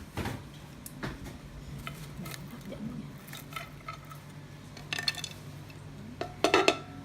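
Dishes and cutlery clinking: scattered light taps and clinks of utensils against plates, with a cluster of louder clinks near the end, over a low steady hum.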